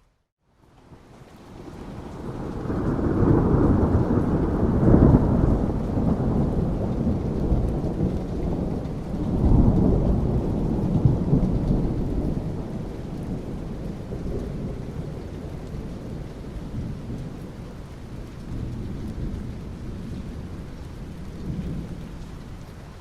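Thunder rolling with rain falling. After a moment of silence the deep rumble builds up, swells twice to its loudest about five and ten seconds in, then slowly dies away over a steady hiss of rain.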